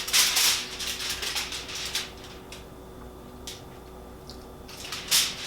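Crinkling rustle of food wrapping being handled for about two seconds, then a few light clicks and a short rustle near the end.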